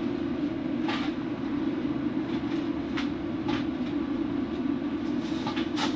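A steady, low mechanical drone with a few scattered clicks.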